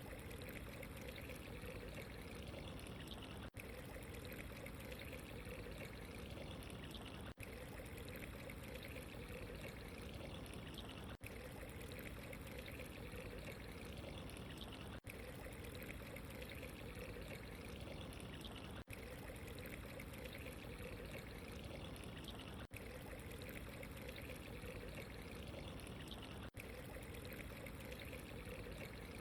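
Steady running, trickling water, unbroken except for a very brief dropout about every four seconds.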